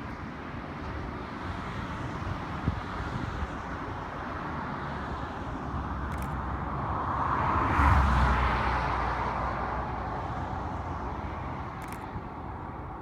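A passing vehicle's rumble over outdoor background noise, swelling to a peak about eight seconds in and then fading, with two short clicks along the way.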